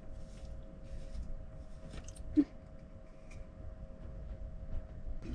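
Light handling noises, scuffs and rustles of things being moved about, with one short sharp knock about two and a half seconds in, over a faint steady hum.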